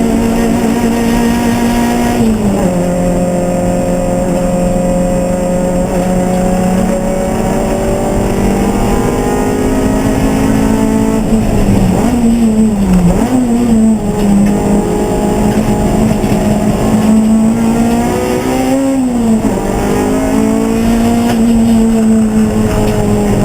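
Race car engine running hard and steadily, its pitch stepping down about two seconds in, dipping and wavering around the middle, and rising then falling again near the end as the car lifts and shifts.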